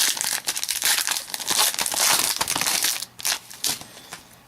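A trading-card pack wrapper crinkling and tearing as it is opened by hand, busiest for about three seconds, then a few softer rustles.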